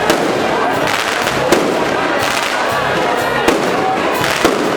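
Fireworks going off: several sharp bangs one to two seconds apart over a continuous dense din.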